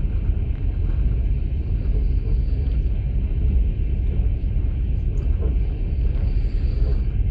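Passenger train running, heard inside an open-plan sleeper carriage: a steady low rumble from the wheels and running gear.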